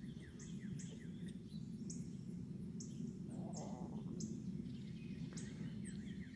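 Several small songbirds chirping: quick, repeated high chirps and short down-slurred notes overlapping throughout, over a steady low background rumble.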